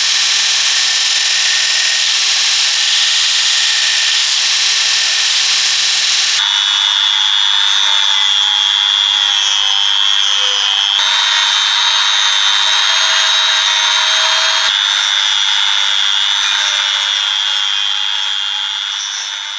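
A power tool running steadily against a workpiece with a high whine. The sound changes abruptly about six, eleven and fifteen seconds in, and fades out near the end.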